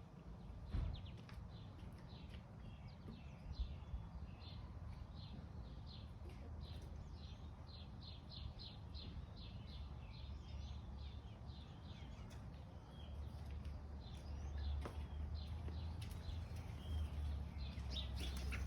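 Songbirds singing outdoors: runs of short, high, quick chirps repeated several times a second, over a steady low rumble, with a couple of brief knocks early on.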